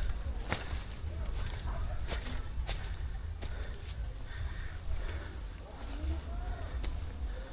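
Insects chirring in a steady high drone, joined about three seconds in by a thin, steady high tone, with faint animal calls and scattered sharp clicks of footsteps over a low rumble.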